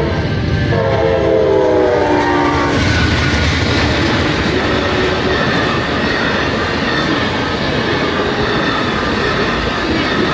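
Amtrak passenger train's horn sounds a chord for about three seconds as the train reaches the crossing. It is followed by the steady rumble and clatter of the cars running past.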